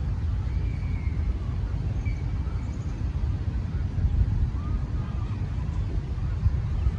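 Steady low outdoor rumble, with a few faint, short bird chirps above it.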